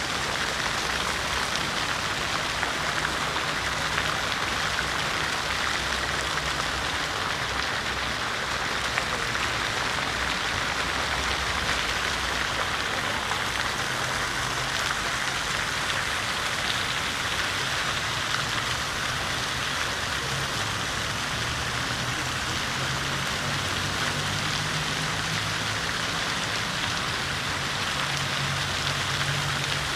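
City fountain water splashing and pattering steadily into its basin, with a faint low hum that comes and goes underneath.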